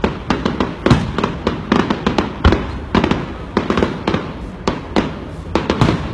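Fireworks going off in quick, irregular succession: sharp bangs and crackles several times a second, many overlapping.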